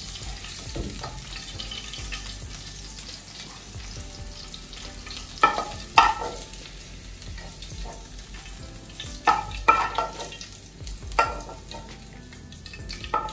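Chicken strips sizzling in hot oil in a wok, with a metal ladle scraping and clinking sharply against the metal several times from the middle onward as the fried chicken is scooped out.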